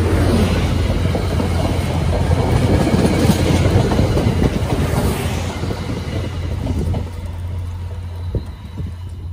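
A train running past on the rails, loud and steady, then fading from about seven seconds in.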